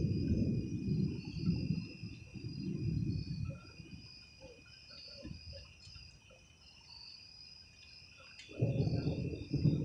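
Thunder rumbling and rolling away over the first three or four seconds, with crickets chirping steadily throughout. A fresh roll of thunder starts near the end.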